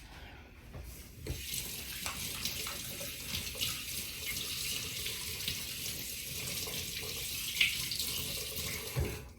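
Water tap running into a sink: a steady rush of water that starts about a second in and stops just before the end.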